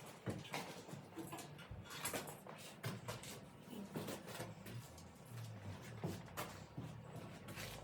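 Faint, irregular clicks, knocks and creaks of metal being handled as the engine is hoisted out of a mini excavator with a homemade crane.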